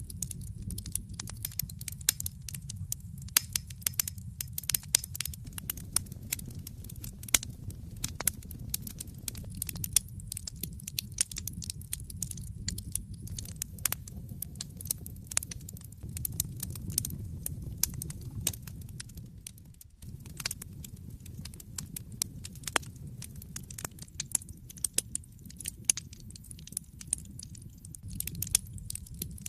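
Wood fire in a fireplace crackling: a dense, irregular run of sharp pops and snaps over a steady low rumble of the flames. The rumble briefly drops out about twenty seconds in.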